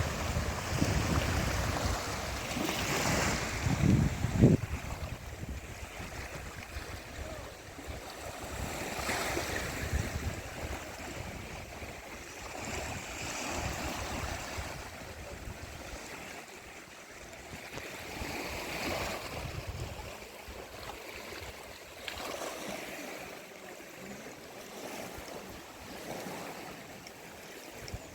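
Sea waves washing onto the shore, swelling and fading every few seconds. Wind buffets the microphone in the first few seconds, peaking in a sharp gust about four and a half seconds in.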